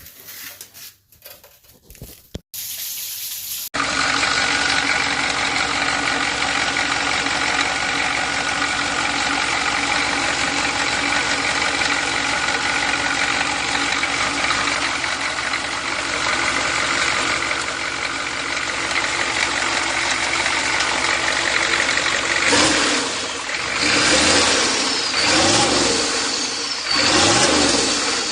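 A few clicks, then a GM 6.2 L V8 diesel engine running steadily. Near the end its sound rises and falls several times.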